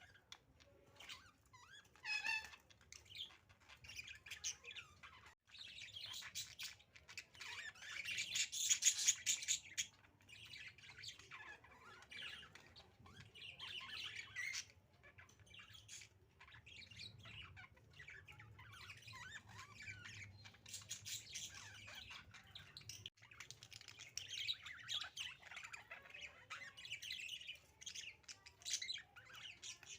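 Pet budgerigars chattering and chirping continuously in rapid high-pitched twitters, with a louder stretch of chatter about a third of the way in.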